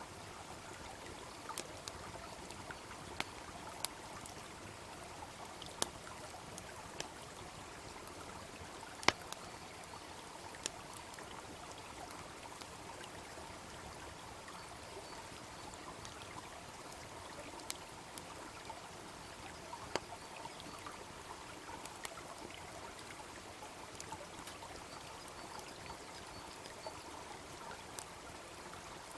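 Wood fire crackling, with sharp pops scattered at irregular moments and the loudest about nine seconds in, over the steady rush of a babbling brook.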